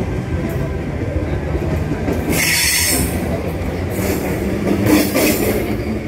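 Passenger train moving through the station: a steady low rumble of wheels on rails, with several short bursts of high hissing noise from about two seconds in.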